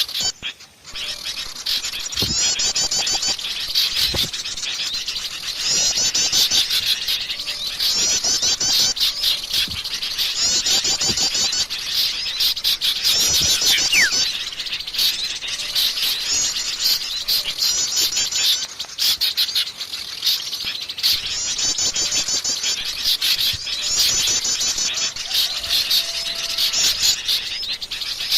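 A dense chorus of small songbirds chirping and chattering, as used in a bird-lure recording. A rapid high trill recurs every few seconds.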